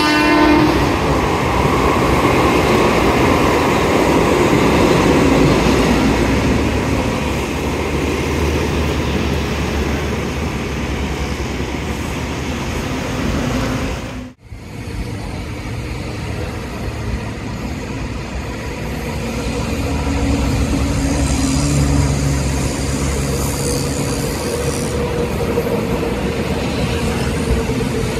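Mumbai suburban electric local trains running past on the tracks, a steady heavy rumble of wheels on rail, with the tail of a train horn just at the start. The sound breaks off for a moment about halfway, then another passing train's rumble with a faint steady motor hum carries on.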